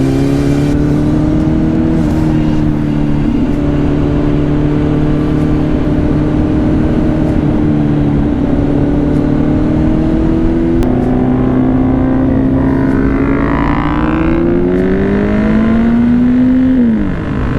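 Motorcycle engine running under way at a steady pitch, then climbing gradually in the second half before dropping off sharply near the end as the throttle is closed.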